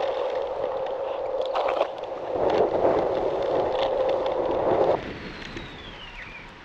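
Electric scooter being ridden: a steady motor whine with rolling noise, cutting off suddenly about five seconds in, then a faint falling whine as it dies away.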